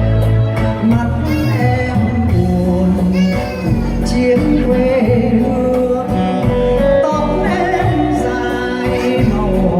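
Music: a song sung over instrumental accompaniment.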